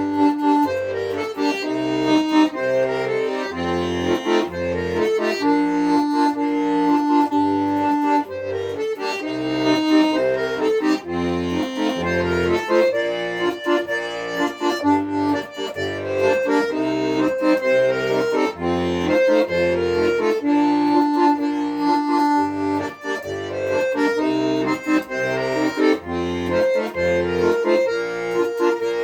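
Accordion playing a tune: a melody line over a regular, repeating pattern of low bass notes and chords.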